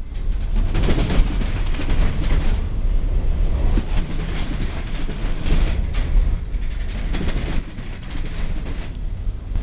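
Freight train's high-sided open-top cars rolling past close by: a steady rumble of steel wheels on the rails that swells and eases every second or two, with occasional clanks.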